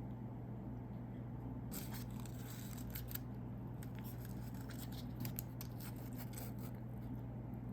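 A run of small, crisp clicks and snips from about two seconds in to near the end, over a steady low hum.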